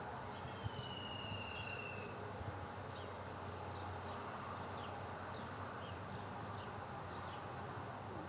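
Birds calling: a long, slightly falling whistle about half a second in, then short chirps scattered throughout, over a steady background hum.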